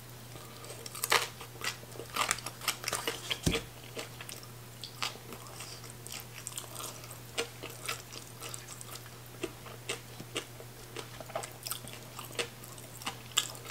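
A person chewing a mouthful of spicy green papaya salad and fried fermented fish, close to the microphone: sharp, wet crackling clicks that come thick and fast in the first few seconds, then sparser. A faint steady low hum lies underneath.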